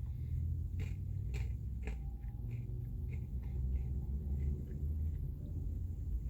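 Faint chewing and small clicks from someone eating a Blizzard with chocolate chunks, over a steady low rumble.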